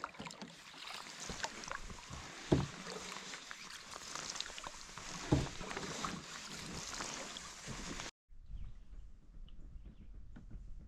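Canoe being paddled: water swishing and dripping off the paddle, with a sharp knock of the paddle twice, about three seconds apart. Near the end it cuts abruptly to a quieter, duller stretch of water sound.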